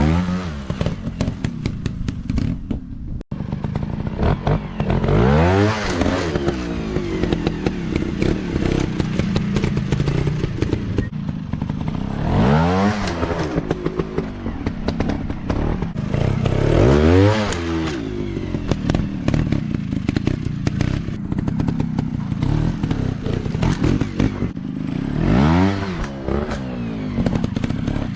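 Dirt bike engines revving hard and easing off over and over, rising and falling in pitch several times, with frequent knocks and clatter.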